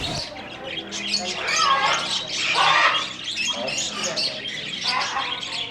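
Many caged parrots and smaller pet birds squawking and chirping at once, with overlapping, irregular calls and no pause.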